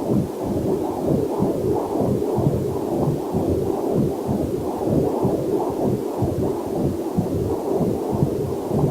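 Heartbeat picked up by a fetal Doppler monitor: a quick, steady train of muffled pulsing whooshes. A faint waterfall hiss is mixed in beneath it.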